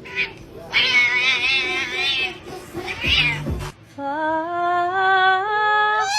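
A cat yowling: a long cry with a wavering pitch, a shorter cry, then a drawn-out call that climbs steadily in pitch near the end.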